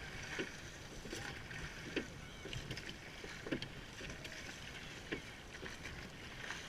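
Rowing boat under oars: a short clunk from the oars at each stroke, about every one and a half seconds, over a steady wash of water and wind.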